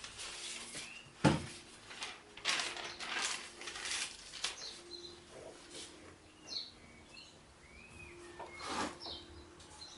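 Hands handling tools and gearbox parts: a scattered series of clicks and knocks, the loudest about a second in. Birds chirp briefly several times in the background.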